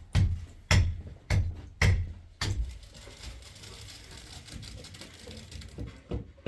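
A series of five heavy, evenly paced knocks, about two a second, each with a deep thud, followed by fainter, irregular clicks and handling noise.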